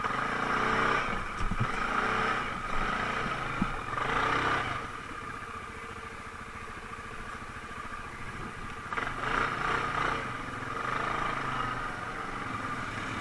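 ATV engine running, with the throttle opened up in about three swells.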